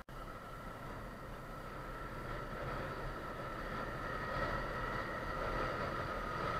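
Yamaha TTR 250 trail bike's single-cylinder four-stroke engine running steadily while riding, slowly growing louder, after a momentary dropout at the very start.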